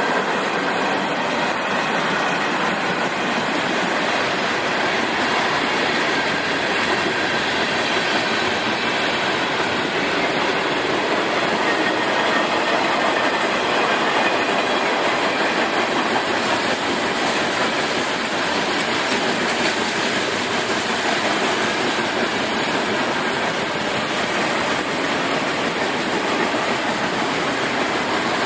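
Train rolling steadily past: the continuous rumble and rattle of its cars on the rails, mixed with falling rain.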